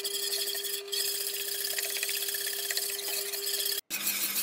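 Wire whisk scraping and swishing rhythmically through thick, cooking pineapple custard filling, its wires rasping against the inside of a ceramic-coated pot. A steady hum runs underneath, and everything drops out in a brief gap near the end.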